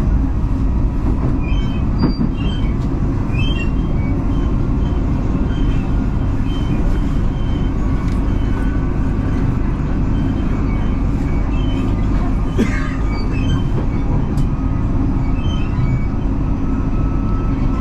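Electric commuter train running between stations, heard from inside the carriage: a steady low rumble of wheels on rails, with a few sharp clicks from the track.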